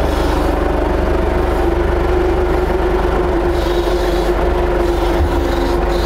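Forklift driving along with a bundle of long metal pipes on its forks: its drive runs with a steady whine over a constant low rumble.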